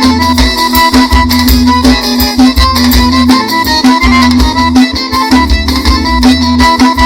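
Instrumental passage of live forró band music, with a steady kick-drum beat, a bass line and a lead melody line.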